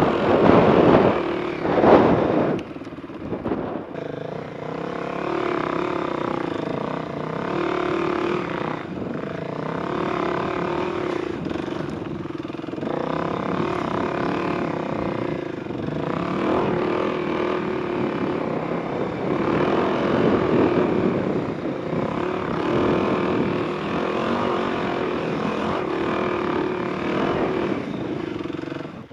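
Enduro motorcycle engine running under throttle, revving hard in the first couple of seconds, then holding a fairly steady pitch with small rises and falls.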